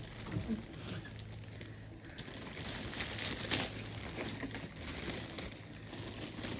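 Packaging being handled and crinkled as a sewing machine is unwrapped: irregular rustling with a sharper crackle a little past halfway.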